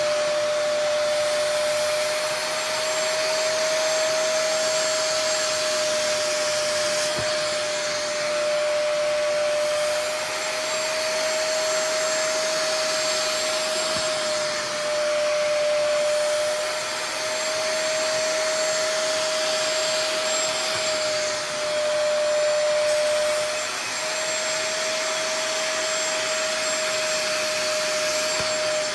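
Bissell Spot Clean Pro portable carpet and upholstery cleaner running steadily, its suction motor making a steady whine over a rush of air. The pitch and loudness waver slightly every few seconds.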